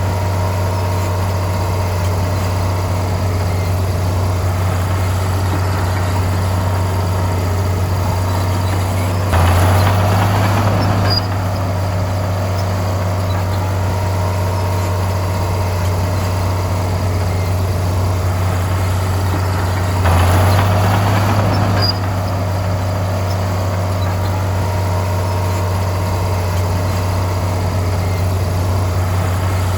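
Heavy diesel engine of a bulldozer running with a steady low hum. Twice, about ten seconds apart, it gets louder and rougher for about two seconds, then settles back.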